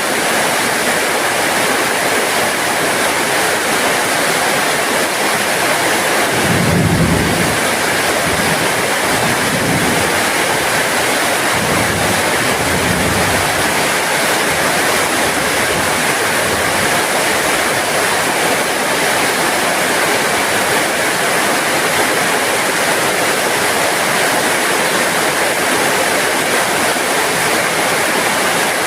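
Heavy rain falling steadily, a dense even hiss of water. About seven seconds in a brief low rumble swells up under the rain and fades, with fainter ones a few seconds later.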